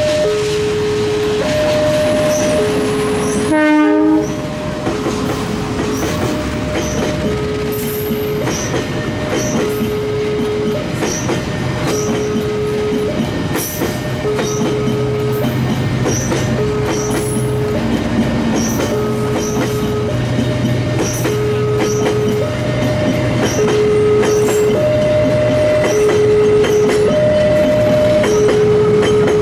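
KAI diesel-hauled passenger train passing, its wheels clattering over the rail joints, while a railway level-crossing alarm keeps sounding its alternating two-tone chime. A short horn blast comes about four seconds in.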